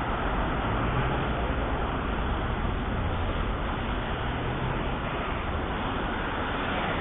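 Steady rumble and hiss of road traffic, with no single vehicle or event standing out.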